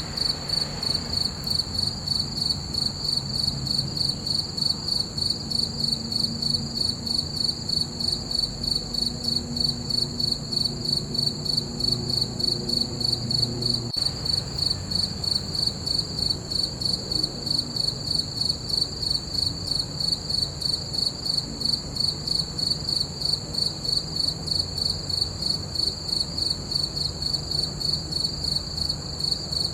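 Crickets chirping in a fast, even rhythm that does not let up.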